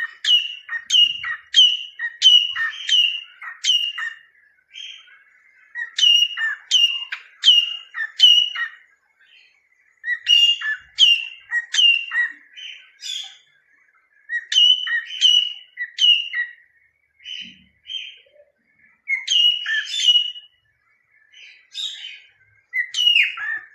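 Cockatiel singing: runs of short whistled chirps, each falling sharply in pitch, about two a second, broken by pauses of a second or two.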